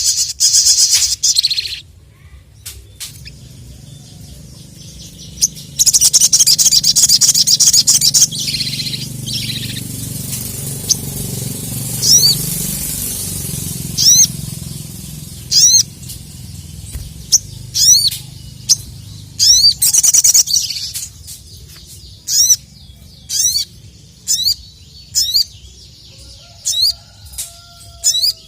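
A sogok ontong (sogon), a sunbird, singing: loud, rapid chattering trills near the start and again from about six to eight seconds in, then a string of short, sharp, sliding call notes about once a second. A low rumble sits underneath in the middle.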